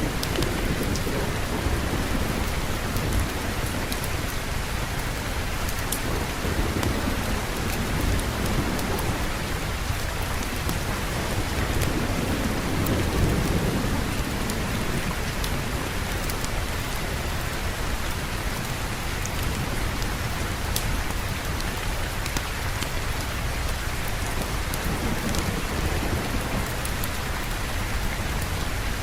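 Steady heavy rain, with low rolling thunder swelling up twice. Scattered sharp ticks run through it.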